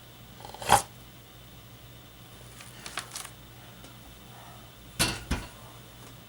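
A few sharp knocks and clicks in a small room: a loud one about a second in, two light clicks midway, and two more knocks near the end, over a faint steady hum.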